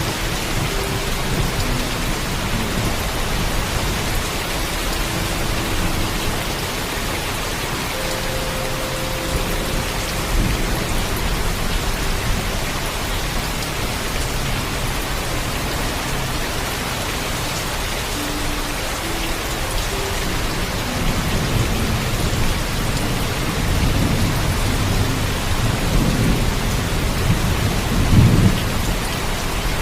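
Heavy rain falling steadily, with low thunder rumbling underneath. The thunder swells over the last several seconds and peaks in a louder rumble near the end.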